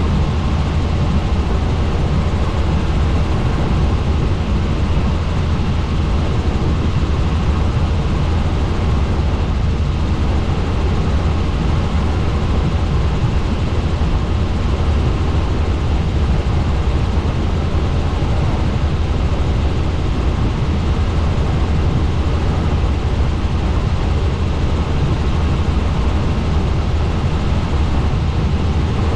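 Helicopter in flight: steady, loud rotor and engine noise, heaviest in the low end.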